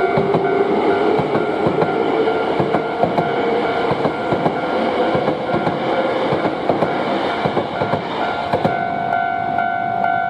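A Hankyu Kyoto Line electric train passes a Japanese level crossing, its wheels clacking over the rail joints, with a motor whine rising in pitch over the first several seconds. The crossing's electronic warning bell rings about twice a second throughout. It stands out again as the train noise thins about eight seconds in.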